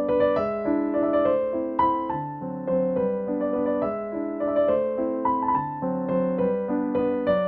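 Background piano music: a steady flow of notes, several sounding together, played throughout.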